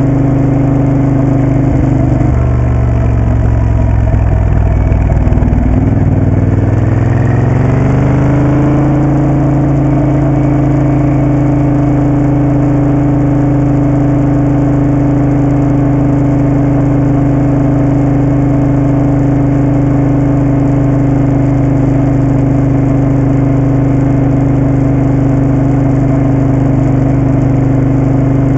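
Moto Guzzi Café Sport's V-twin engine running under way; its note falls for a few seconds, climbs back, then holds steady.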